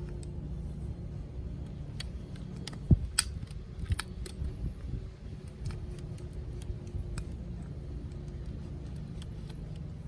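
Hand tools and metal parts clicking and clinking as a boat's sail drive is worked on, with one sharper knock about three seconds in. A steady low rumble runs underneath.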